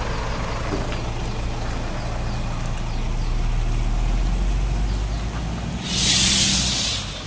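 Scania P 360 truck's diesel engine idling steadily; about six seconds in, a loud hiss of compressed air from the air-brake system lasts about a second.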